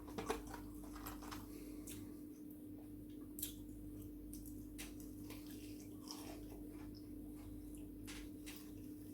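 Close-up chewing and mouth sounds of someone eating: soft scattered clicks and smacks, over a steady low hum.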